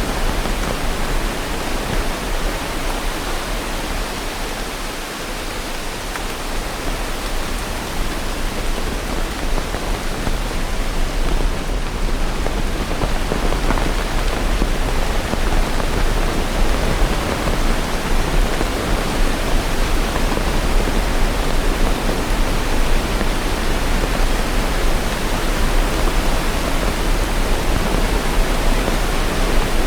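Steady, dense rain: an even hiss with no separate drops or thunder, dipping slightly a few seconds in.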